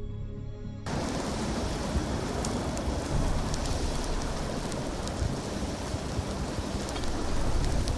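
Background music cuts off about a second in, giving way to the steady rushing noise of a wildfire burning, with scattered crackles.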